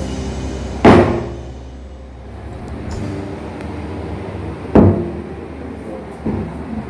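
A door banging twice, two sharp knocks about four seconds apart, then a fainter knock near the end.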